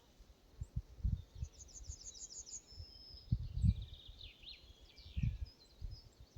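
A songbird sings one phrase of quick, high repeated notes that step down into a lower trill and end in a short flourish. Under it run irregular low rumbles and thumps.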